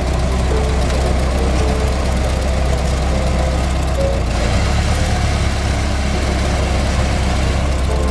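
1924 Ford Model T's four-cylinder engine running steadily as the car drives along, heard from inside the car, its low note shifting slightly about halfway through.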